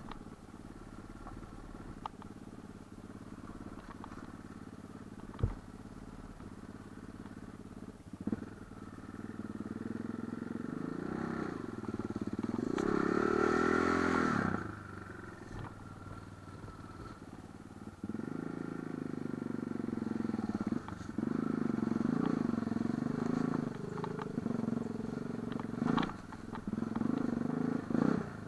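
Light enduro motorcycle engine running at low revs, then revving up and down, loudest about halfway through. A few sharp knocks and clatters come between.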